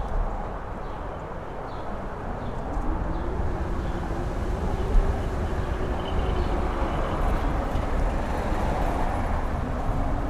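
Strong gusty wind on a mountain top, with a faint howl that rises and falls in pitch and heavy low rumbling where the wind buffets the microphone, including one sharp buffet about halfway through.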